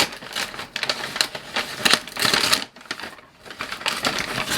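Irregular clicks, taps and rustles of takeout food packaging being handled and opened: plastic containers and lids knocking and snapping, with bag rustling.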